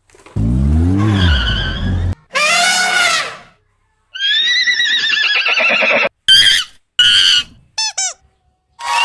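A string of cartoon sound effects: a low springy boing that rises and falls, a call that slides down in pitch, a longer wavering animal-like call, then a few short chirps near the end, each separated by brief silences.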